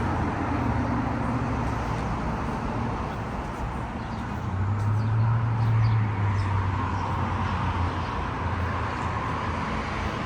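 Motor traffic noise: a steady rush with a low engine hum that swells about five seconds in, as a vehicle passes or moves off.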